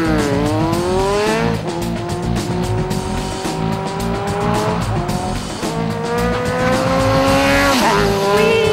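High-revving racing engine accelerating through the gears: its pitch climbs steadily and drops sharply at each shift, about a second and a half, five and eight seconds in. Music with a repeating low beat plays underneath.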